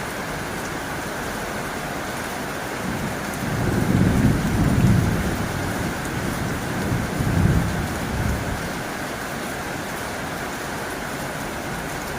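Heavy rain falling steadily on a tin roof. Two low rumbles rise and fade, the first about four seconds in and the second about seven seconds in.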